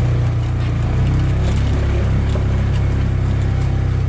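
Polaris RTV utility vehicle's engine running with a steady low hum, with light ticks and rattles over it.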